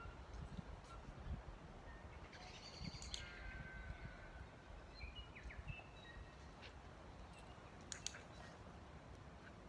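Faint bird calls, short whistled notes and little glides, over a low rumble of wind on the microphone, with a couple of sharp clicks.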